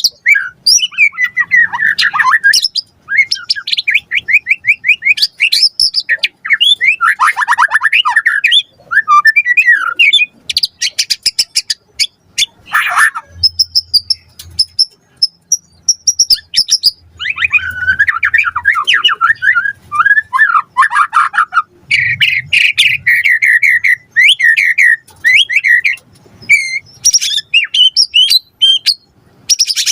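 White-rumped shama singing a loud, varied song of rapid trills, chattering runs and whistled notes, phrase after phrase with short pauses between.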